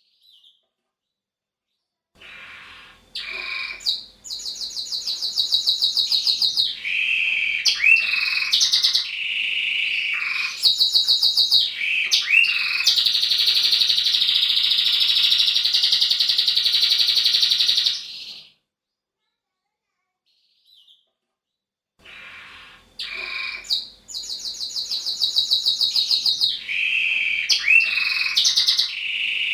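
Male roller canary singing long rolling trills and fast repeated notes, with some gliding notes and a long unbroken roll in the middle. The song stops for a few seconds, then starts again with the same phrases.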